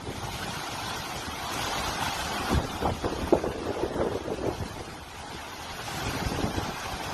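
Rough, churning water with wind buffeting the microphone, and a few irregular splashes or knocks near the middle.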